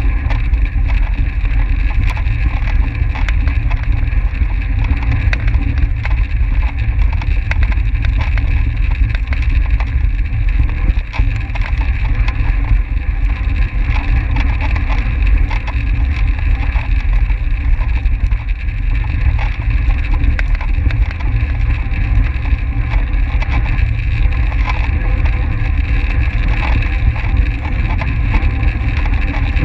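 Wind buffeting the microphone of a track racing bicycle at race speed: a loud, unbroken low rumble with a steady hiss and small ticks above it.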